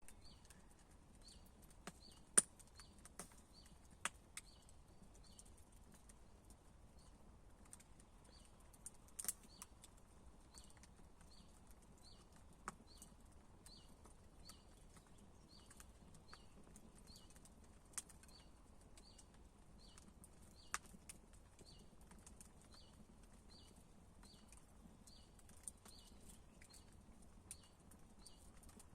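Campfire crackling: irregular sharp pops and snaps from burning wood, a few much louder than the rest. Behind it, a faint high chirp repeats about twice a second.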